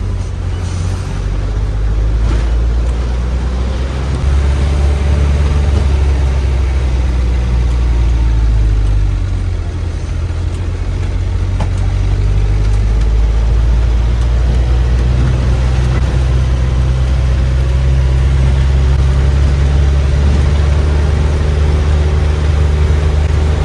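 Bus engine running under way: a low, steady drone whose pitch steps up and down a few times as the engine speed changes.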